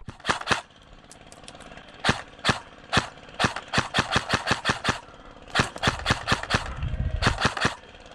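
Airsoft electric guns firing: single shots and short rapid bursts of sharp cracks at about eight shots a second, in several separate strings.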